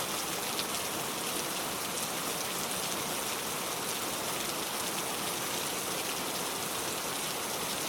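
Steady rain falling on a car, an even patter of drops with occasional sharper drop ticks.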